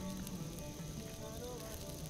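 Soft background music with held notes, thinning out, over a steady crackling hiss from the fire of an open raku kiln.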